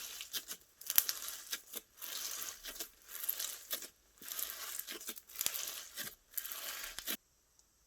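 Slime squished and stretched by hand, crackling and crinkling in a run of bursts about a second long with sharp pops between them; it cuts off suddenly about seven seconds in.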